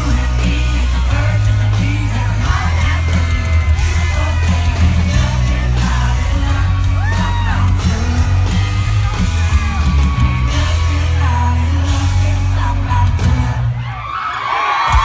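Country rock played loud with a male lead vocal over heavy bass, and yells and whoops, as from a live concert crowd. The music drops briefly near the end and then comes back in.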